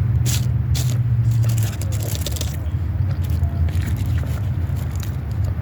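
Close-up eating: crunchy bites and chewing of fast food, with crackly, crisp clicks clustered in the first half, over a steady low hum.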